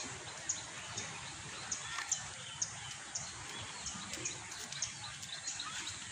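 Birds chirping in short, high chirps, roughly two a second, over steady outdoor background noise.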